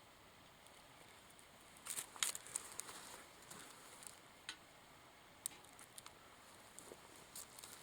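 Wood fire crackling in a can stove: scattered sharp pops and crackles over a faint hiss, with a quick flurry of them about two seconds in.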